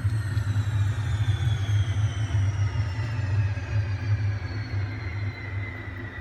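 Faux engine prop's shutdown sound: a whine gliding steadily down in pitch over a low rumble, both slowly fading as the engine winds down.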